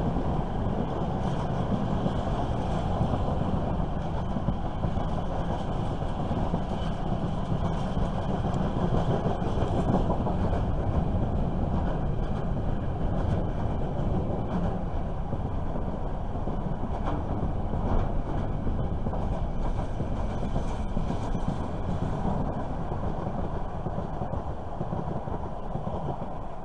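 Container freight train's flat wagons rolling past, a steady rumble of wheels on the rails with some clickety-clack, easing a little near the end as the last wagon goes by.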